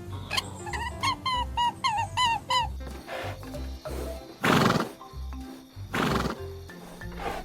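Background music with animal calls over it: a quick run of about seven short pitched calls, then four loud, noisy, breath-like bursts, the loudest about halfway through.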